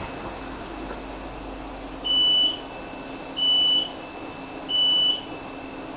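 Class 458 electric train's door warning beeps as it stands at the station: three even, high beeps, each about half a second long and about a second and a half apart, over the steady hum of the carriage.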